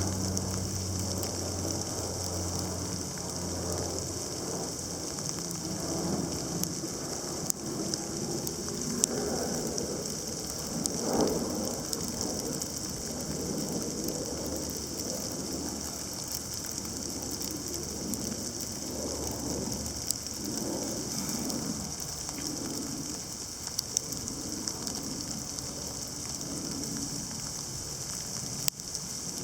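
Heavy sleet mixed with snow coming down: a steady hiss of ice pellets hitting surfaces, with scattered sharp ticks. A low hum fades out in the first few seconds.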